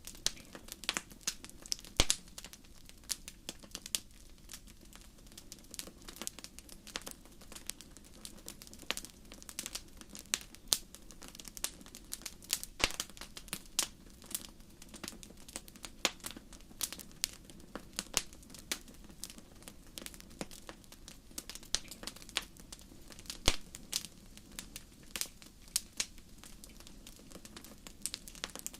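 Wood fire crackling: irregular sharp pops and snaps, several a second, over a soft, steady low rush.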